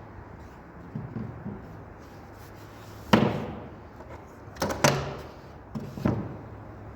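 Sharp knocks of wooden boards being handled and set down: a few light knocks about a second in, a loud knock with a short ringing tail around three seconds in, a double knock near five seconds and another knock around six.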